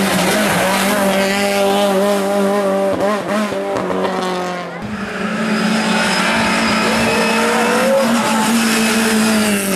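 Race car engine running hard at high revs, a loud, steady note with small rises and dips in pitch. About five seconds in the sound breaks off abruptly and a similar high-revving engine note carries on.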